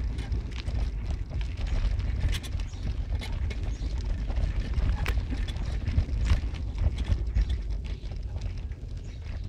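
Car on the move: a steady low road and engine rumble, with irregular clicks and knocks of the body or suspension going over an uneven surface.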